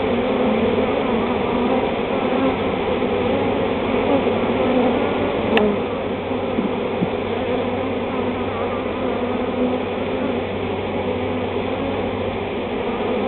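A honey bee swarm buzzing, many bees at once in a steady drone. A single sharp click comes about five and a half seconds in.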